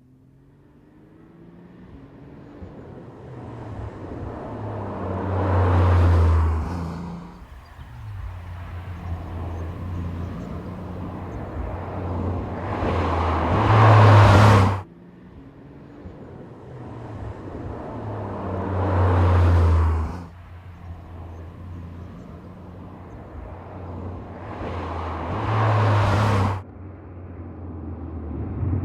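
Porsche 992.2 Turbo S's twin-turbo flat-six accelerating hard four times. Each pull builds in loudness over several seconds, then drops away abruptly.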